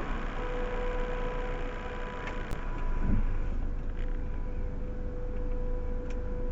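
Proton Waja car heard from inside the cabin: a steady low engine and road rumble with a faint steady hum and a few light clicks.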